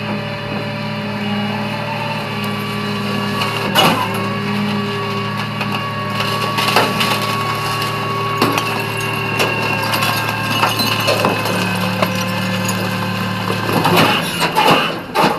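A steady low mechanical hum with scattered sharp cracks and knocks, turning into busier clattering about fourteen seconds in.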